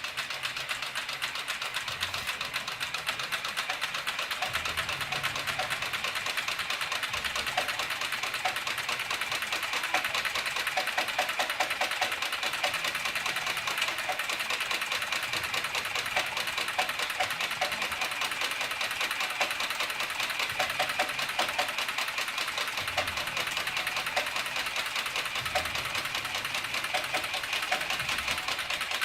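CB4500 heavy-duty triple-feed leather sewing machine running steadily at speed, its needle and feed working in a fast, even run of stitch strokes.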